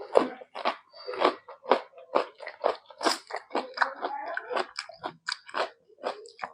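A person chewing and biting food close to the microphone: a dense, irregular run of short crunchy mouth sounds, several a second.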